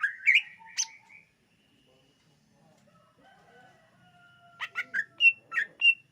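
Cucak ijo (green leafbird) singing. A quick run of whistled, sliding notes at the start, then after a pause of about three seconds a second burst of sharp, ringing notes near the end.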